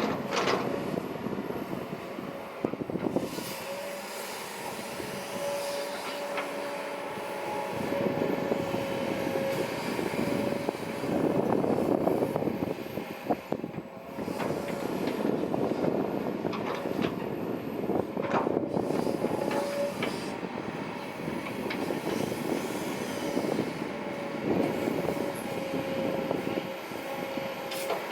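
Kobelco SK200-8 Super XM excavator's diesel engine and hydraulics working, a steady whine over the engine that swells and eases several times as it takes load.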